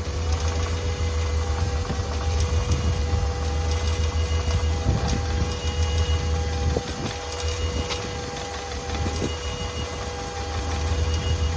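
Mazda Miata four-cylinder engine running steadily in a bodyless chassis, a low rumble with a constant high tone over it. The engine has not run for over a year.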